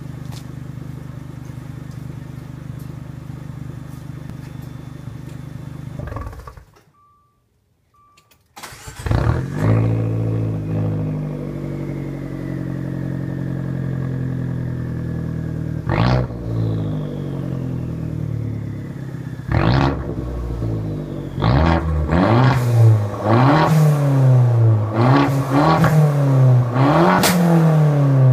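2013 Dodge Dart's straight-piped exhaust, idling steadily, then shut off and restarted about a third of the way in. It settles into an idle with a slowly falling whine, gives a couple of single revs, then is revved again and again in quick rises and falls near the end.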